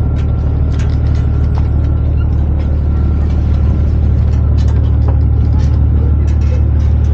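Sightseeing boat's engine running with a loud, steady low rumble, with faint scattered ticks over it.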